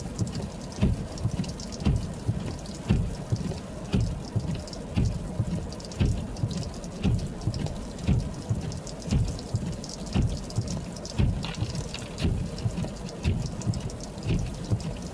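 Footsteps crunching through snow at a steady walking pace, each step giving a dull low thump with crackle on top.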